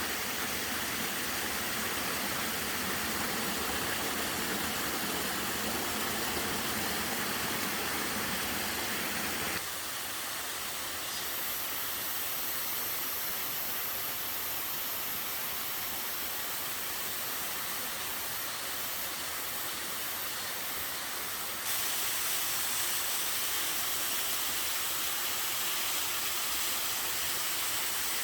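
Steady rush of a waterfall, Simbaengi Falls, pouring into a mountain stream. The rush shifts abruptly in tone twice, about a third and two thirds of the way through, turning duller and then brighter again.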